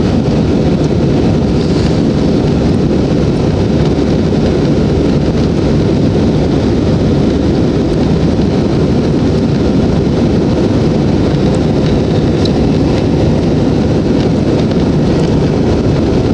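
Jet airliner engines and rushing air heard from inside the passenger cabin during takeoff: a loud, steady, deep rumble that does not change.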